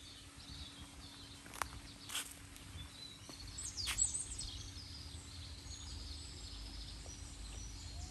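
Birds chirping over outdoor background noise, with a steady low hum. A few sharp clicks come about a second and a half and two seconds in, and a louder one about four seconds in.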